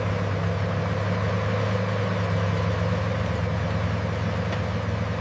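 Tiger tank's Maybach V12 engine running steadily with a deep, even drone.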